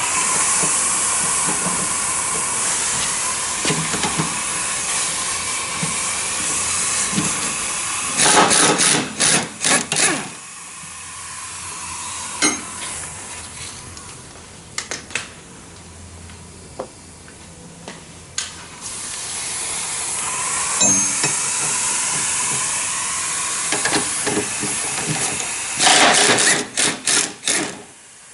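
Pressurised spray hissing in two long blasts, each ending in a quick run of short bursts, as a part is sprayed or blown off during work on the steering noise.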